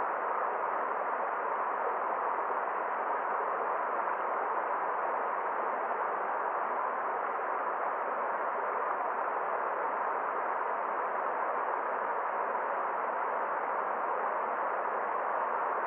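Forest stream flowing, a steady, even rush of water with no change.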